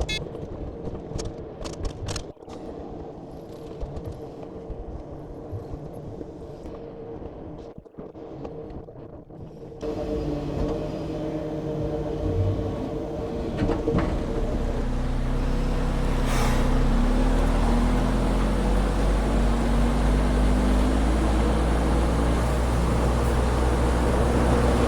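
Timber truck's diesel engine running. It is quieter, with scattered clicks, for the first ten seconds, then gets louder and settles into a steady, heavier drone from about fourteen seconds in.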